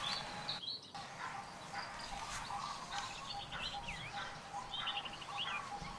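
Many short, high chirping calls, some gliding up and down, over a steady pulsing note. The sound drops out briefly under a second in.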